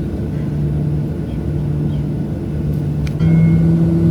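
Steady cabin rumble of a Boeing 737-700 airliner, with a low steady hum. A click about three seconds in, then it gets louder with a higher steady tone added.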